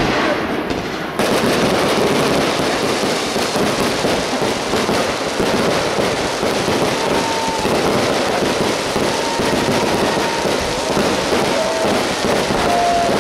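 Fireworks crackling densely and continuously, a steady rapid crackle of many small pops. A few thin whistling tones sound over it from about halfway in and again near the end.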